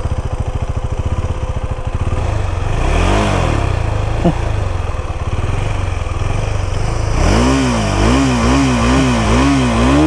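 KTM Duke 390's single-cylinder engine idling, then revved once about three seconds in. A short sharp click comes soon after. Near the end the throttle is blipped quickly again and again, the engine pitch rising and falling about twice a second.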